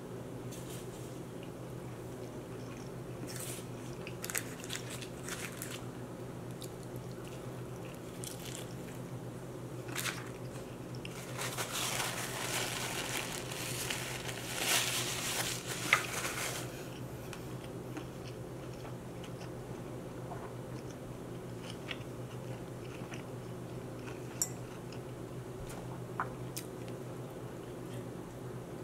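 Close-miked eating: chewing of rice and fried plantain, with small scattered clicks of a plastic fork. About eleven seconds in, a paper napkin rustles against the face for some five seconds. A steady low electrical hum runs underneath.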